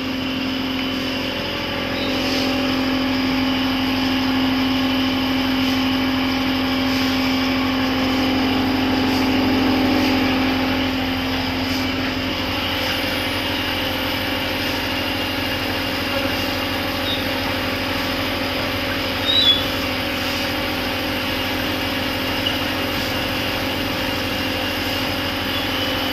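Engine running steadily with a constant hum; one low steady tone in it fades out about halfway through. A brief high-pitched squeak comes near the three-quarter mark.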